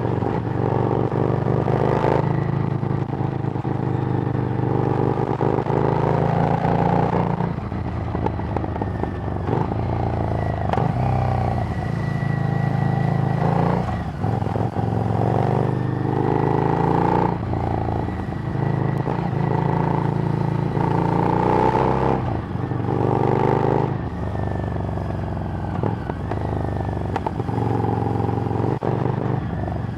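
Harley-Davidson Street Rod's 750 cc V-twin running through a Screamin' Eagle exhaust while riding. The engine note rises and falls repeatedly every few seconds as the bike speeds up and slows.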